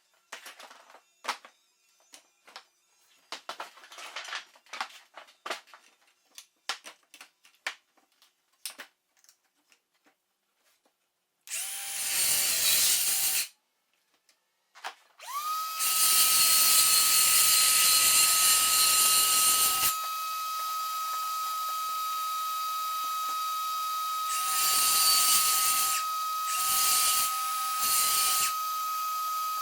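Scattered clicks and knocks of setting up, then a handheld electric circular saw running along a cutting guide. It runs briefly and stops, then spins up to a steady whine and cuts through the worktop, its sound growing heavier twice under load before it winds down.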